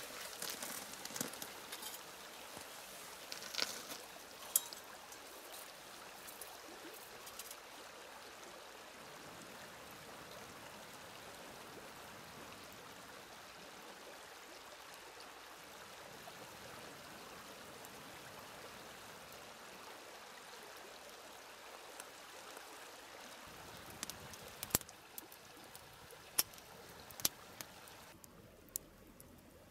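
River water flowing steadily, a continuous even rushing, with a few sharp clicks in the first seconds and again near the end.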